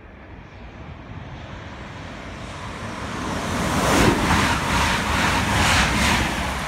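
Hull Trains Class 180 'Adelante' diesel multiple unit passing non-stop at high speed on the East Coast Main Line, its rush of wheel-on-rail and air noise building as it approaches and loudest about four seconds in. Repeated surges of noise come as the carriages sweep past, then it eases off near the end.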